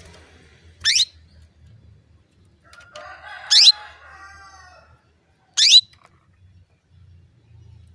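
Female canary calling: three short, sharp notes a couple of seconds apart, each sweeping quickly downward in pitch. Around the second call, a longer and lower call with several pitch lines lasts about a second and a half.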